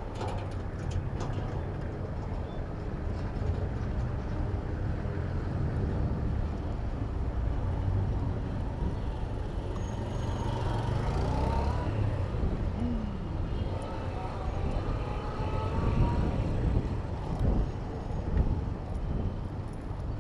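Street traffic: vehicle engines and tyres passing, over a steady low rumble.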